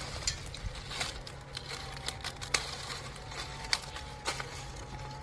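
Leafy tree branches being handled and broken, giving irregular light snaps and clicks of twigs and leaves.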